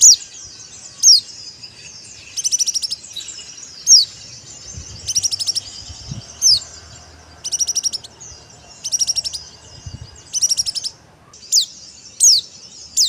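Pleci (white-eye) calling: sharp high whistles that drop in pitch, alternating with short, very fast trills, over a faint background of chatter.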